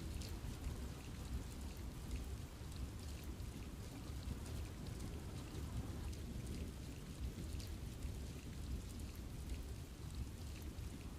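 Steady rain falling in a forest, a continuous hiss with many scattered drop ticks over a low rumble.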